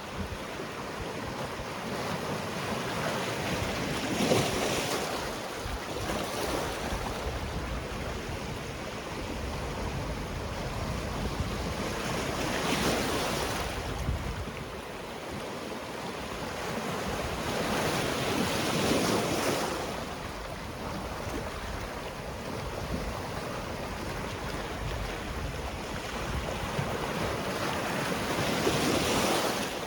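Sea waves breaking and washing on the shore, a steady rush of surf that swells four times as waves come in.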